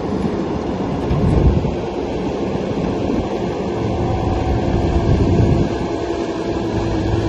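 LTMG LTS75 skid steer loader's engine running steadily while the machine works, a continuous low mechanical rumble with a faint steady hum above it.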